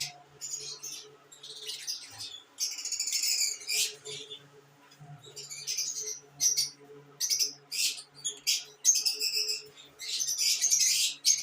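Lovebirds chattering and chirping: rapid, shrill, high calls in bursts, one after another with short gaps.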